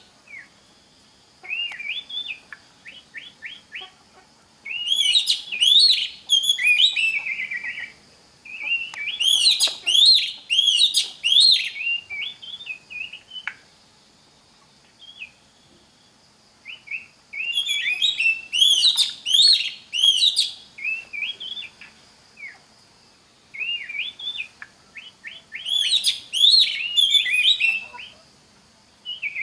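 Oriental magpie-robin (kacer) singing: phrases of a few seconds made of rapid, sweeping whistled notes, broken by pauses of a second or more, five phrases in all.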